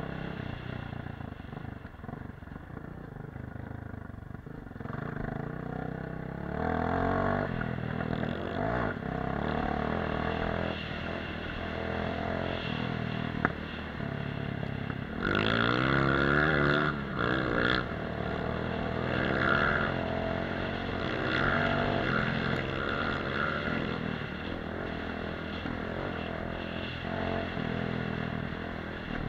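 Dirt bike engine running under way, its revs rising and falling quickly about halfway through. There is one sharp click about 13 seconds in.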